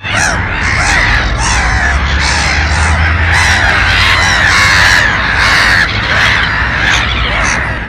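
A flock of birds calling all at once: a dense, loud chorus of many overlapping harsh calls, with a low steady hum beneath. It cuts off suddenly at the end.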